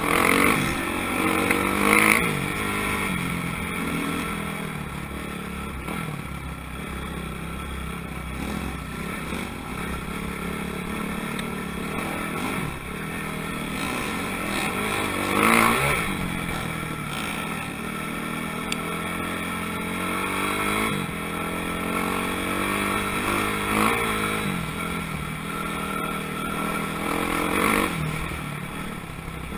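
Motocross motorcycles riding a track, their engines revving up and falling back again and again as they accelerate and shift. Bikes swell loudly as they pass close, around two seconds in, in the middle and near the end.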